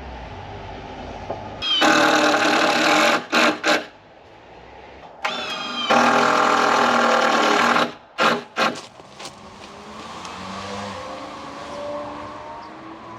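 A loud motor-driven tool running in two bursts of about two seconds each, each starting and cutting off sharply, followed by a quieter hum.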